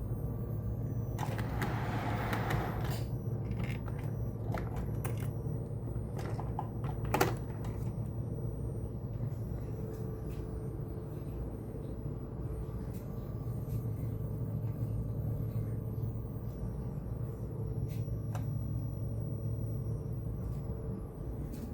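Model train running on its layout: a steady low rumble, a brief hiss about a second in, and a few sharp clicks, the loudest a little after the middle.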